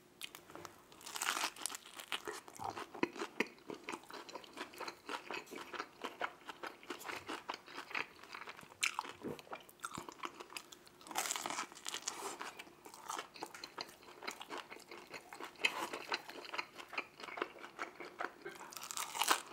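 Close-miked eating of Little Caesars deep-dish pizza: crisp crust crunches as bites are taken, about a second in, around the middle and near the end, with steady crackly chewing between.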